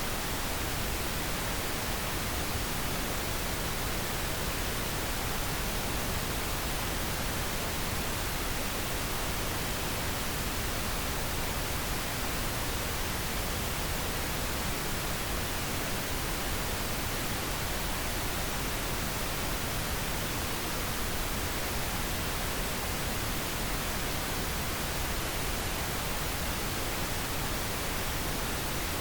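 Steady, unchanging pink noise: an even, full-range hiss with no tones or breaks, played as a sleep aid.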